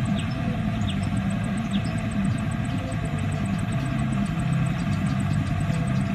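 A motor engine running steadily, a continuous low rumble with no change in speed.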